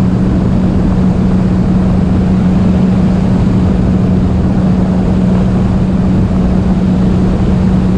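Jet ski engine running at a steady speed, a constant drone with one held pitch, over a dense rushing noise with low buffeting.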